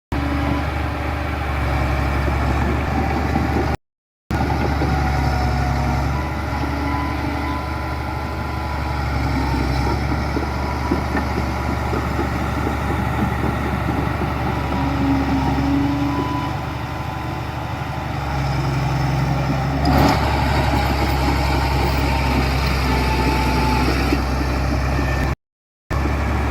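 Diesel engines of heavy earthmoving machinery running steadily. The sound cuts out briefly twice, and a single sharp knock comes about three-quarters of the way through.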